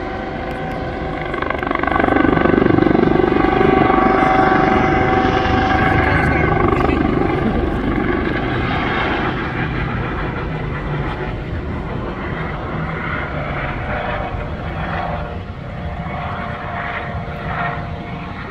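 Military aircraft engine noise as an aircraft passes over, swelling about two seconds in and then slowly fading.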